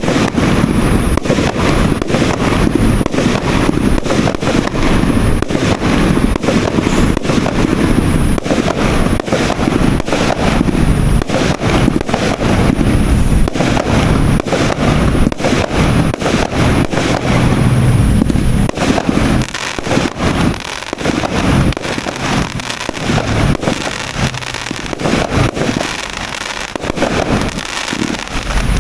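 A 200-shot, 1-inch consumer fireworks cake firing its shots in rapid, continuous succession over a constant rumble. Near the last third the firing thins a little and grows quieter.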